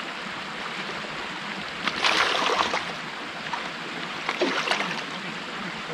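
Creek water running steadily, with two short, louder bursts of splashing-like noise, about two seconds in and again around four and a half seconds in.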